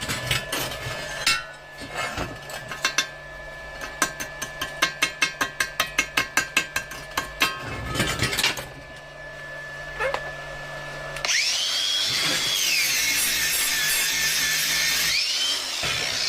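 A run of sharp metallic clicks and taps, about three a second at their thickest, then, about eleven seconds in, a handheld power tool motor starts and runs loudly, its whine rising and falling in pitch.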